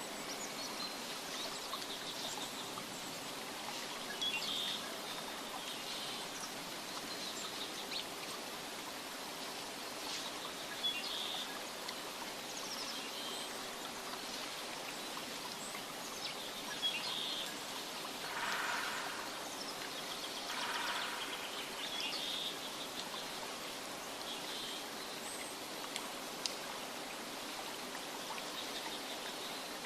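Nature ambience: a steady hiss of running water with birds chirping on and off, short high calls every second or two, and two fuller, lower calls a little past halfway.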